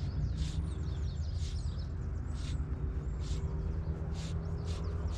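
Small birds chirping repeatedly, short high calls and quick falling notes about once a second, over a steady low rumble.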